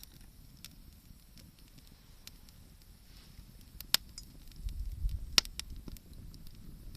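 Wood bonfire crackling, with scattered sharp pops, two louder ones about four and five and a half seconds in, over a low rumble that swells briefly near the middle.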